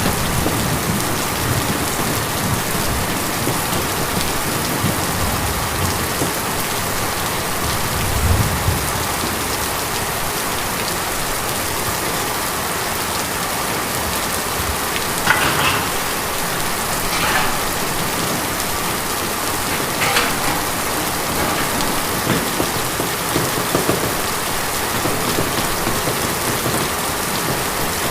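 Steady rain falling on a tin roof, with a brief low swell about eight seconds in and a few louder drops standing out in the second half.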